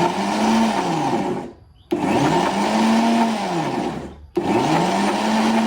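Blender run in short pulses: three runs of about two seconds each with brief stops between, the motor's pitch rising as it spins up and falling as it winds down. It is churning a thick tuna mayonnaise sauce.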